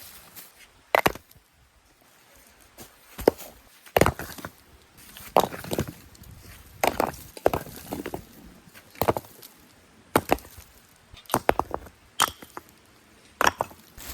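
A hand tool striking hard into stony earth, about a dozen irregular blows roughly one a second, some followed by a short scrape, as ground is dug and shaped for a stone-and-soil fireplace.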